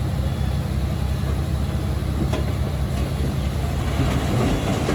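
Diesel engine of heavy earthmoving equipment running steadily with a low drone, with one sharp click a little past two seconds in.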